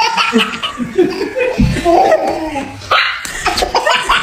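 A dog barking and yipping over and over in quick, irregular calls.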